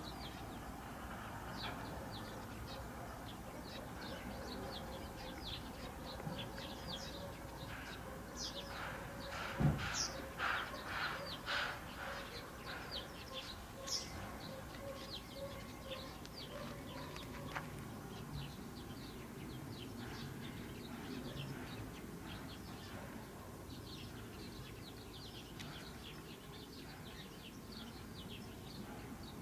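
Small birds chirping over and over in quick short notes, over a steady background hum, with one dull thump about ten seconds in.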